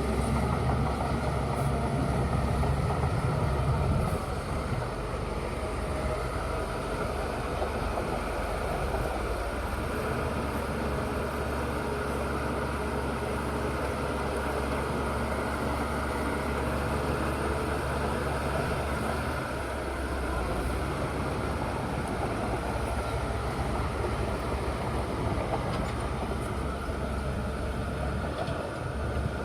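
Bulldozer's diesel engine running with a steady low drone, a little louder for the first few seconds.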